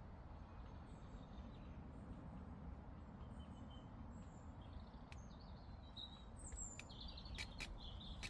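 Small birds chirping in short high calls, faint at first and busier from about halfway, over a steady low rumble of outdoor background noise. A few sharp clicks near the end.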